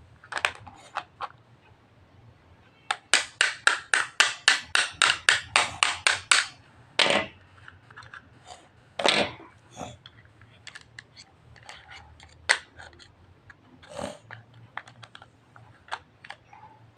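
Tools tapping and clicking: a few separate taps, then a quick run of about four taps a second for some three seconds, then scattered taps and clicks.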